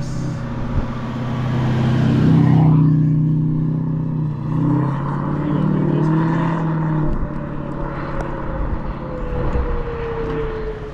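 Outdoor tornado warning siren wailing, its pitch slowly falling and then rising again near the end, over the steady low drone of a vehicle's engine. There is a rushing noise in the first few seconds.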